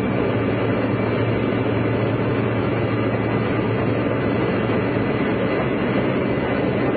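Steady in-flight airliner cabin noise: the even roar of the engines and rushing air heard from inside the cabin, with a low hum underneath.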